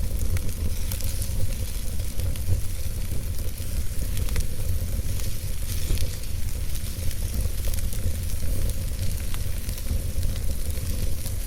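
Campfire burning: a steady hiss with many small crackles and pops scattered throughout, over a constant low rumble.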